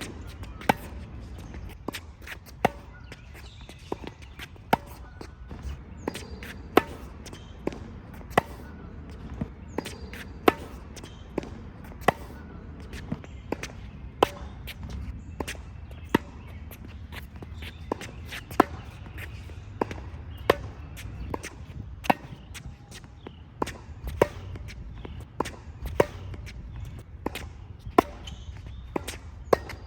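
Tennis balls struck off racket strings in a volley rally: a sharp pop about every two seconds with quieter hits in between, over a low steady rumble.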